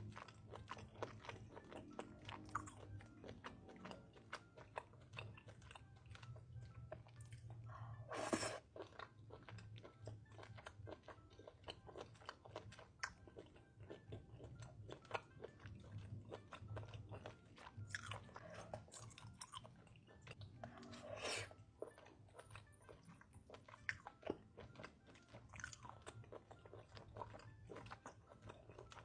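Close-miked chewing of chuka idako, seasoned baby octopus: a steady run of small wet mouth clicks, with a louder burst about eight seconds in and another about twenty-one seconds in.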